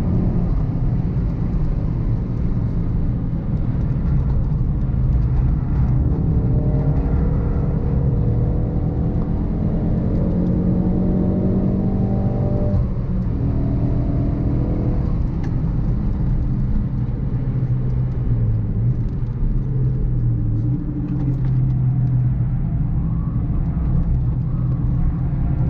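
Mk3 Ford Focus RS's 2.3-litre turbocharged four-cylinder engine under hard track driving, revs climbing and dropping back at gear changes, with a clear upshift about halfway through. Heavy road and wind rumble runs underneath.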